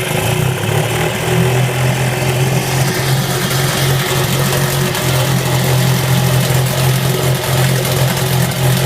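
Eska 7.5 two-stroke outboard motor running steadily, a little bumpy because the engine is still cold.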